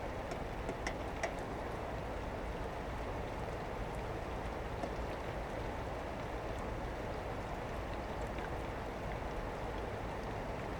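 Steady rain falling, heard through an open window, with a few sharp drips in the first second or so.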